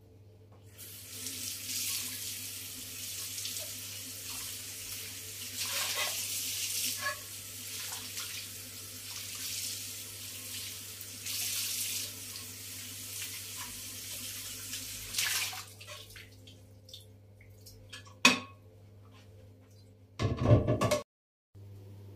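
Kitchen tap running into a sink for about fifteen seconds, with a few small knocks of things handled under the water, then turned off. A sharp click and a short, louder clatter follow near the end.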